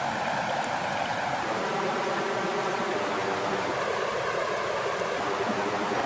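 Flowing water rushing steadily and evenly, with no breaks or changes in level.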